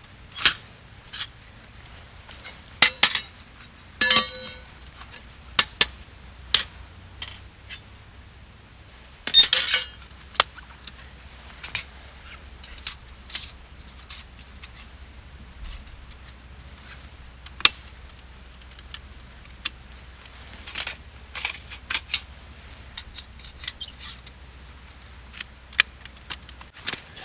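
Metal camping gear clinking and clattering as it is handled and packed away, in scattered short bursts that are busiest in the first ten seconds, then thin out to light ticks.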